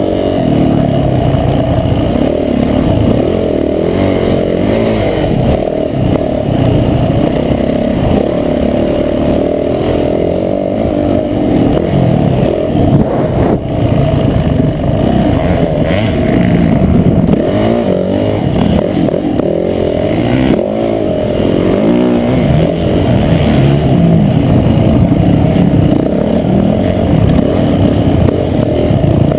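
Motocross bike engine heard on board, its revs rising and falling continuously as it is ridden hard around the track. The sound is dull and muffled, with most of it low down.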